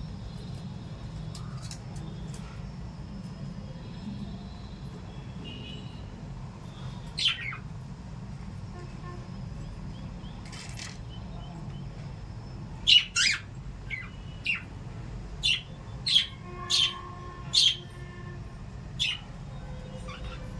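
Small pet parrots giving short, sharp chirps: one about seven seconds in, then a run of about eight from about thirteen seconds on, over a steady low rumble.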